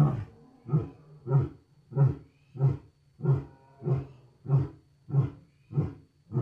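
A lion grunting in a steady series of short, deep grunts, about one and a half a second, with the first the loudest. This is the run of grunts that closes a lion's roaring bout.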